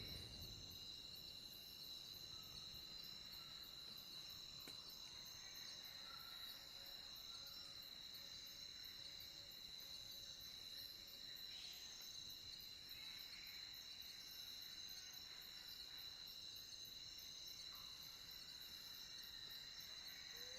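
A faint night chorus of crickets: a steady, unbroken high chirring. Faint low calls sound now and then in the background.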